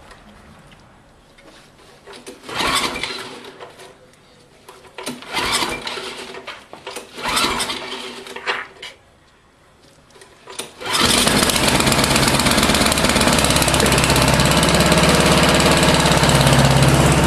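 John Deere snowblower engine cold-started: three short attempts at turning it over, each about a second long, then about eleven seconds in it catches and keeps running steadily at a loud, even level.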